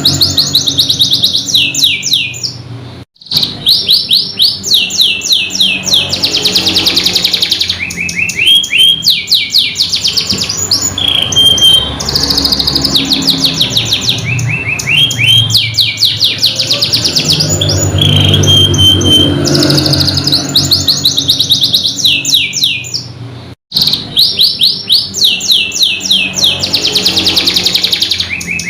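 Domestic canary singing a long, fast song of rapid trills and rolls with short held whistles, cut off by two brief gaps, about three seconds in and again near the end.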